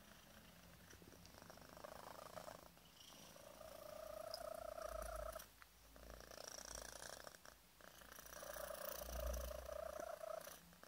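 A five-month-old kitten purring hard. A thin whistling tone rides on the purr through some breaths, with two long whistles, one about four seconds in and one near the end.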